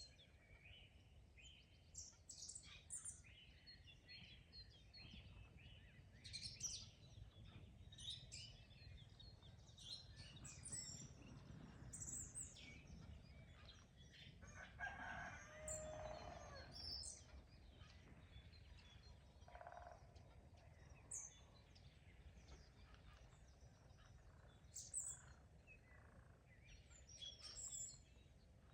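Songbirds chirping and singing faintly throughout. A rooster crows once in the middle, one call about two and a half seconds long.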